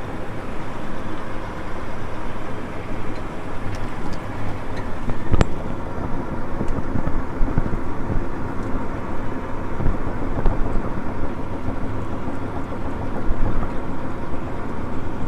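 Farm tractor engine running steadily, heard up close, with a single sharp knock about five seconds in.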